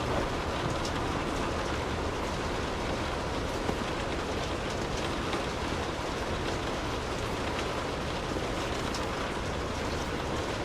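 Steady rain falling: an even hiss with scattered sharper drop ticks over a low rumble.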